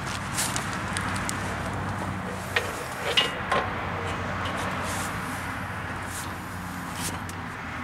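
Metal tool clicks and a few ringing clinks, clustered a couple of seconds in, as a truck's tie rod is adjusted for toe, over a steady wind noise and low hum.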